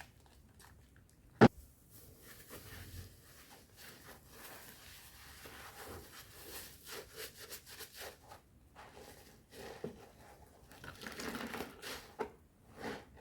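Bar of soap being lathered in thick foam mixed with powder: soft wet squishing and crackling, coming and going, with one sharp click about one and a half seconds in.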